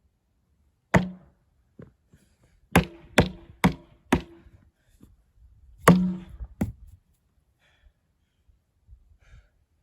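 Hard blows struck on the steel shell of a water heater, each ringing briefly: one hit, then a quick run of four, then another hard hit, with a few lighter knocks between them.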